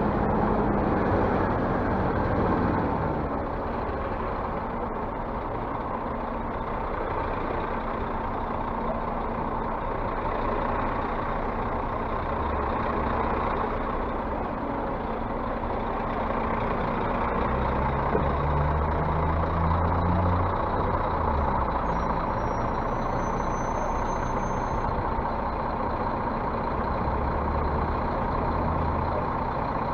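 Scania city bus running, with its engine and road noise steady throughout. The low engine hum swells several times, most strongly about two-thirds of the way through.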